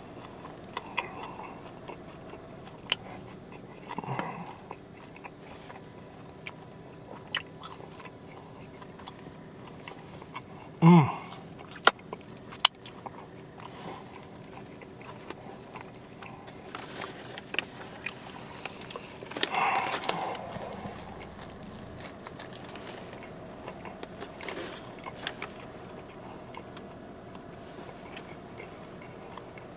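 A person biting and chewing a chicken cutlet hoagie on a crusty seeded roll, with wet chewing and small crunches and clicks. There are a few louder short mouth sounds, the clearest about 11 and 20 seconds in.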